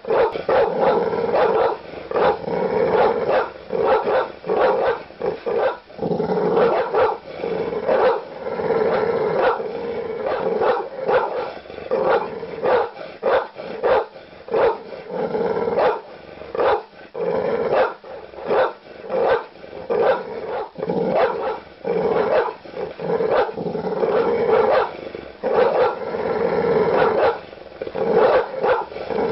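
Large dogs barking aggressively and continuously: deep, loud barks coming several a second, with growling between them.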